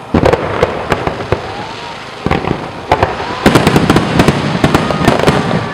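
Fireworks display: aerial shells bursting with sharp bangs. A loud one comes right at the start, and a dense run of rapid crackling bursts follows in the second half.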